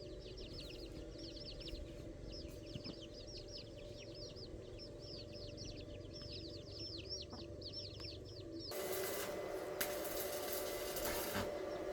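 Birds chirping rapidly: a dense run of quick, high chirps that stops abruptly about nine seconds in, followed by a steady hiss with a faint hum.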